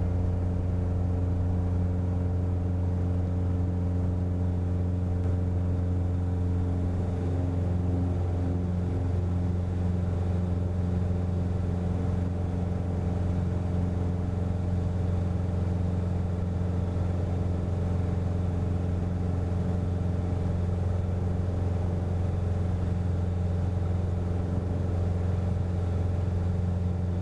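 Cessna 177RG Cardinal's four-cylinder Lycoming engine and propeller running at takeoff/climb power, a loud steady drone with a low hum and its overtones.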